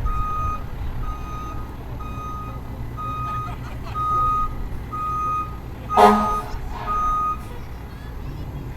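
A fire truck's reversing alarm beeping about once a second as it backs up, over the low rumble of its idling engine. A brief loud pitched sound cuts in about six seconds in.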